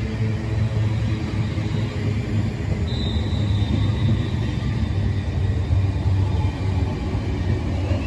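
London Northwestern Railway Class 350 electric multiple unit running, a steady low rumble, with a faint high whine coming in about three seconds in and fading away.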